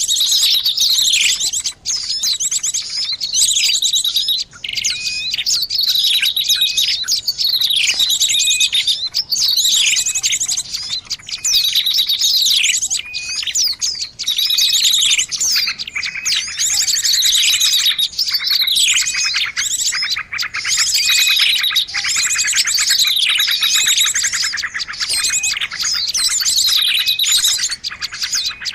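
Noisy chorus of many small birds chirping and twittering at once, with repeated falling calls and fast trills that overlap without pause. It is a bird-lure (pikat) recording meant to draw in birds of all kinds.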